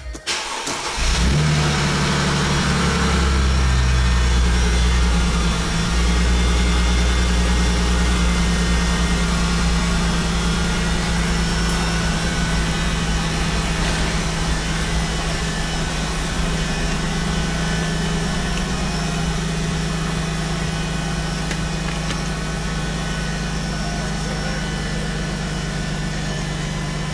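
Mercedes-Benz car engine started with the key: the starter cranks briefly, the engine catches about a second in and runs at a raised idle, then drops a little about six seconds in and settles into a steady idle.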